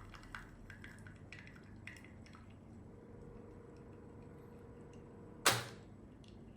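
A Nescafé Dolce Gusto Piccolo capsule coffee machine being handled: faint drips and small clicks, a faint steady hum in the middle, then one sharp plastic clack about five and a half seconds in.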